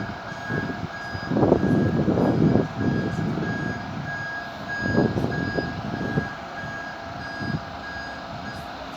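Vehicle reversing alarm beeping steadily, about two beeps a second, over a low, uneven rumble of engine and traffic noise.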